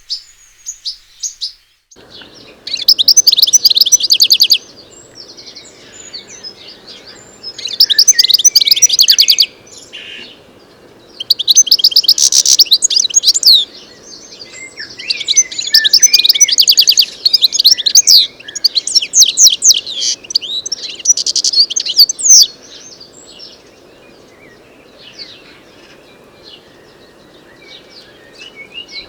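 European goldfinch singing: six loud bouts of rapid, high twittering, each a second or two long, with short call notes before them and softer scattered calls after. A steady low background noise comes in about two seconds in.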